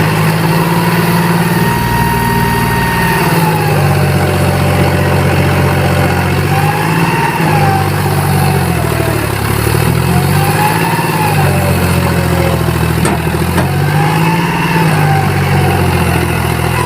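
John Deere 5045D tractor's three-cylinder diesel engine running, revved up and let back down about three times, a few seconds apart.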